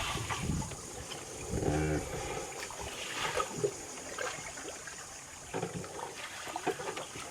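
Water trickling and splashing around a small boat moving through a canal, with scattered small knocks and splashes. There is a brief distant voice about two seconds in.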